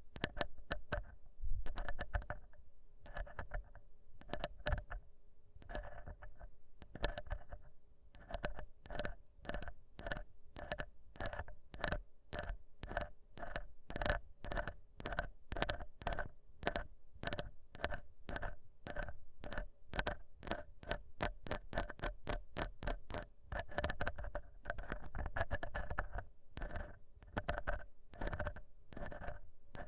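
Ear pick scraping close to the microphone: crisp scratching strokes, spaced apart at first, then coming several a second from about eight seconds in.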